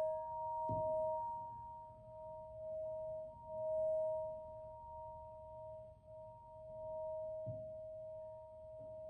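Handheld double practitioner crystal singing bowl ringing on one sustained note with a fainter higher tone above it, swelling and fading in slow waves. Two soft low thuds come about a second in and near the end.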